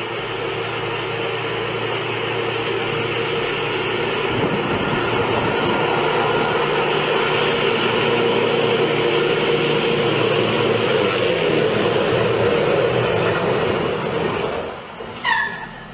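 Long, steady rumbling roar during a magnitude 6.8 earthquake in the mountains. It builds over several seconds, holds, then fades near the end.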